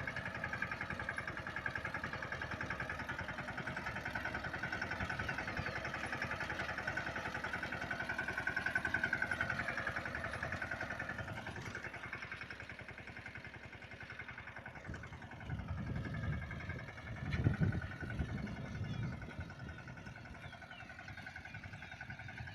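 Yuvraj mini tractor's single-cylinder diesel engine running with a rapid, even firing beat. Its pitch rises a little about nine seconds in, then sinks as the sound fades, and a few louder low rumbles come later.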